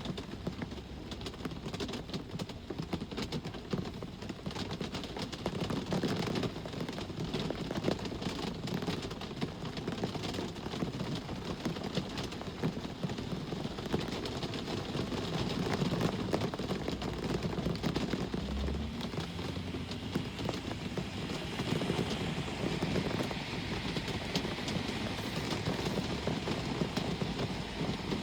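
Steady rain, with many small drop ticks, over a low rumble of road traffic that swells and fades as vehicles pass.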